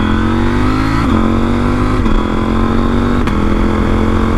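KTM 790 R Rally's parallel-twin engine, with a de-catted exhaust, pulling hard under acceleration and upshifting: the engine note climbs, then drops at each of three gear changes, about one, two and three seconds in.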